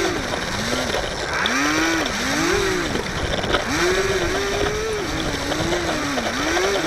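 Electric motor and propeller of a HobbyZone Firebird Delta Ray RC plane whining, the pitch rising and falling again and again as the throttle is worked, over a steady rush of wind.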